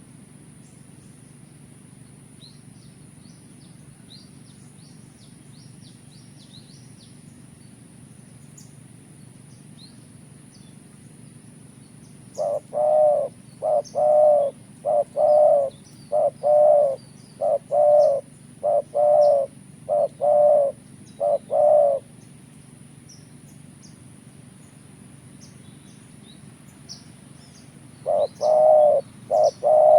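Spotted dove cooing: a quick series of repeated, clipped coos starts about twelve seconds in and lasts nearly ten seconds, then starts again near the end. Thin high chirps of small birds and a steady high whine run underneath.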